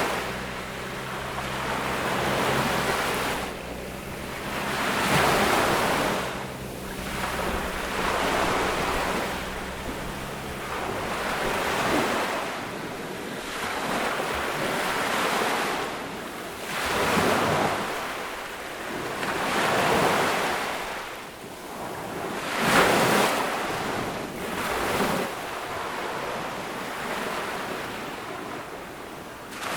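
Ocean waves breaking and washing up on a beach in repeated surges a few seconds apart, one surge noticeably louder about two thirds of the way through.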